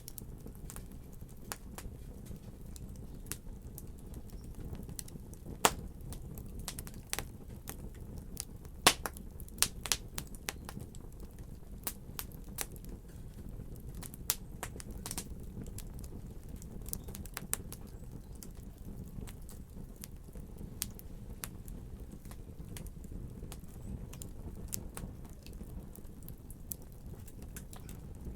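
Wood fire crackling in a fireplace: a steady low rumble of flames under scattered sharp pops and snaps, two louder pops about six and nine seconds in.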